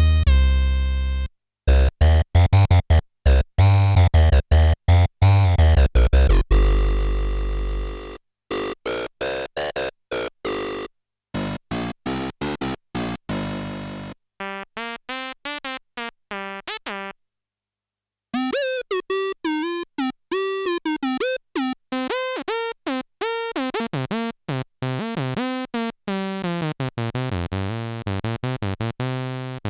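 Behringer K-2 analog monophonic synthesizer, an MS-20 clone, playing a fast sequence of short notes with deep bass in the first few seconds. After a brief silence past the middle, the notes turn to curving, wobbling sweeps in tone.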